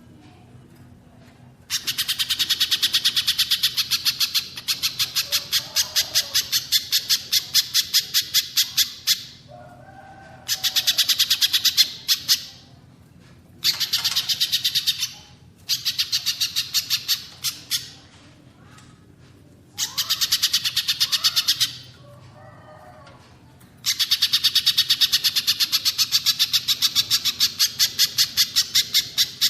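Recorded bird song from a masteran track combining pijantung pisang (spiderhunter) and cililin: bouts of rapid, sharp repeated notes, about five a second, each two to five seconds long with short pauses between.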